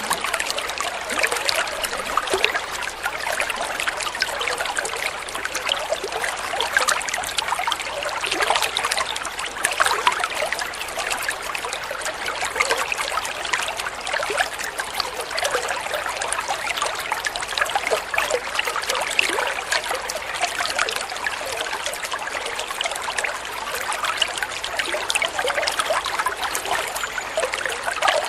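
Flowing water trickling and splashing steadily, a dense patter of small splashes with little deep rumble.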